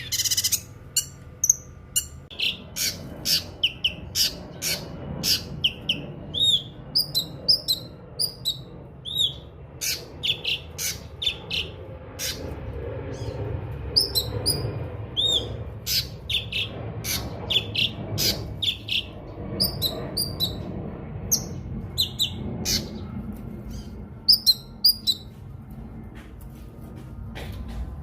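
Cucak kinoi singing: a continuous run of short, sharp chirps and hooked whistled notes, several a second, over a faint low background rumble.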